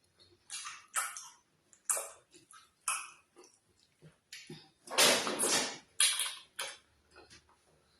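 Close-miked eating sounds: wet chewing and mouth smacking on oatmeal fufu dipped in slimy ogbono soup, in short irregular bursts, with a longer, louder wet burst about five seconds in.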